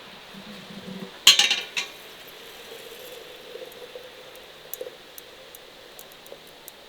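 Kitchenware clattering: a short burst of clinks and knocks about a second in, then a few light ticks.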